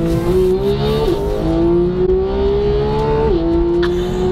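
Porsche 991 GT3's naturally aspirated flat-six engine accelerating hard. The pitch rises through the revs and drops sharply at two upshifts, about a second in and just after three seconds.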